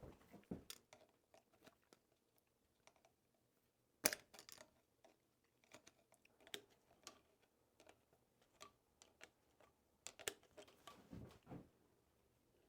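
Near silence broken by faint, scattered clicks and taps of small hand work on an old electric motor's wiring, the sharpest about four seconds in and a few more close together about ten seconds in.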